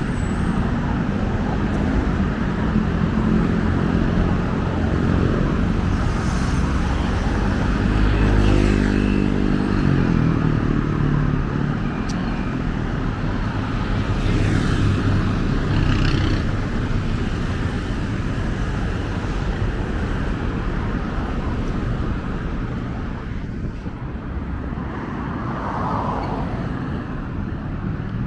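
Steady road traffic passing close by, with a louder vehicle engine going past about eight seconds in.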